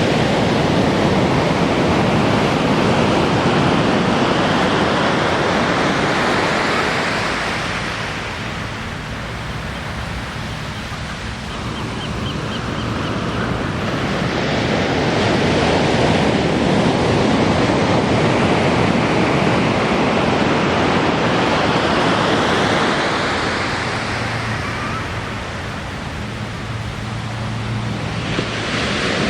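Ocean surf: waves breaking and washing up the beach in a steady wash of noise that swells and eases twice, with the surges a little over ten seconds apart.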